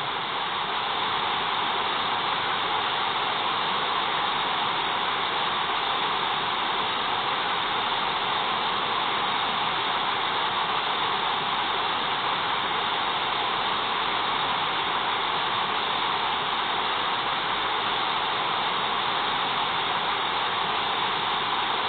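Steady hiss of brown noise played by a ghost-hunting EVP app, picked up through a phone's microphone.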